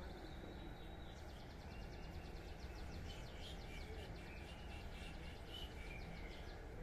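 A bird chirping in rapid trills over a steady low hum.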